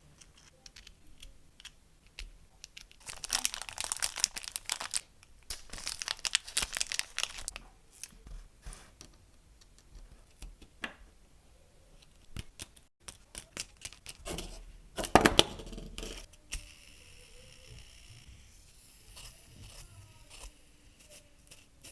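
Toy packaging being torn open and crinkled by hand, in three loud tearing bursts with small clicks and rustles of handling between them.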